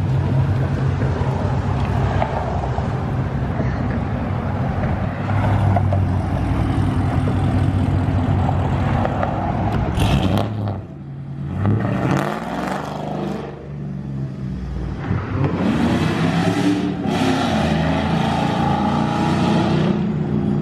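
A vehicle engine idling steadily, then revving several times in the second half, its pitch rising and falling.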